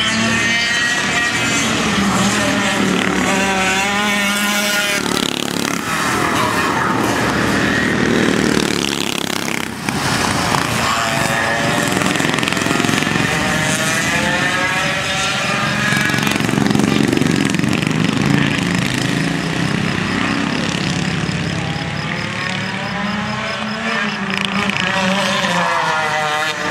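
100cc two-stroke kart engine running hard, its pitch repeatedly rising under acceleration and falling back as the throttle is lifted.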